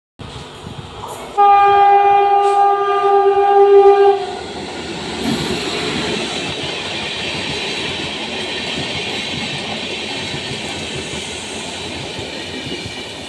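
Train horn blown once for about three seconds, dipping slightly in pitch as it stops, then the steady rumble of a train running along the track.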